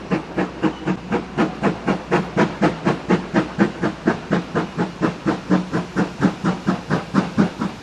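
Steam locomotive exhaust beats: a fast, even chuffing, about four to five beats a second, held steady at speed.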